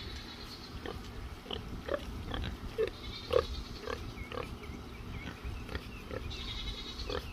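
Pigs grunting while they graze: a run of short, low grunts, about two a second.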